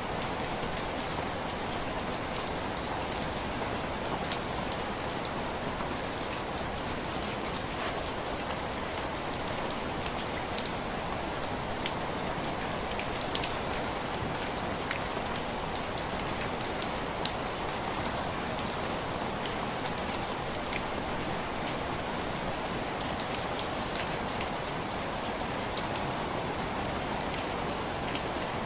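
Steady rain falling on window glass: a continuous wash of rain with many single drops striking sharply, scattered irregularly throughout.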